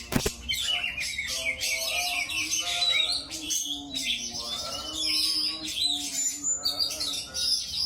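Oriental magpie-robin (kacer) singing a fast, dense, unbroken run of varied chirps and whistles.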